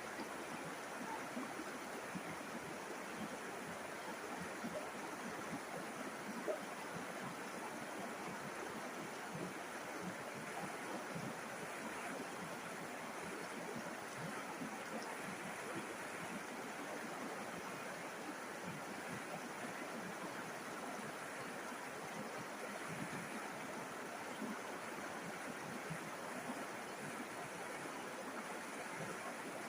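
A river's water running and burbling in a steady, continuous rush, with small splashes flickering through it.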